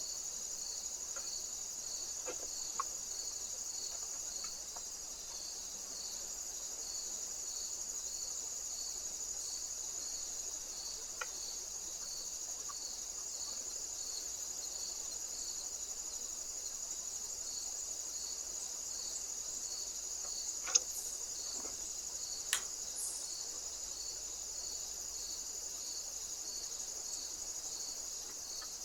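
Crickets chirping: a steady high-pitched trill with a regular pulse about twice a second. Two sharp clicks come about a second and a half apart two-thirds of the way through.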